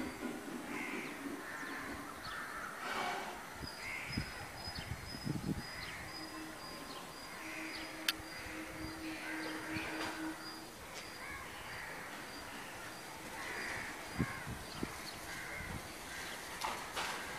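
Bird calls repeating at irregular intervals, over a faint steady high-pitched tone, with a few sharp knocks near the end.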